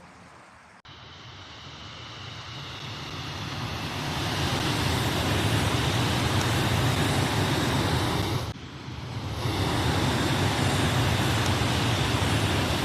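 Steady rumbling vehicle noise that builds up over a few seconds and then holds, cut off briefly about eight and a half seconds in before it resumes.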